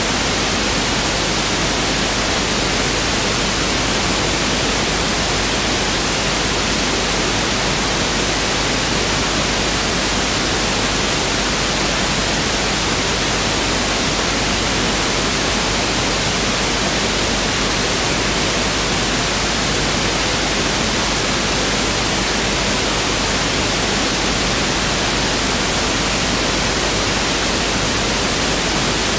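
Pink noise (1/f) test signal: a steady, even hiss spread across the whole frequency range, unchanging throughout.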